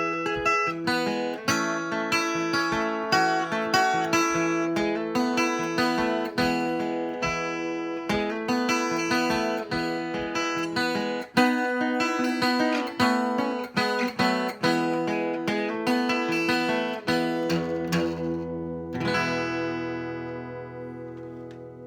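Acoustic guitar playing a quick run of picked notes, then a final chord that rings out and fades over the last few seconds.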